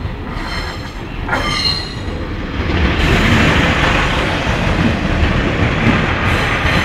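Northern Class 144 Pacer diesel multiple unit passing close by on the rails, the rumble of its engine and wheels growing louder about two and a half seconds in as it draws alongside. There is a thin, high wheel squeal near the start.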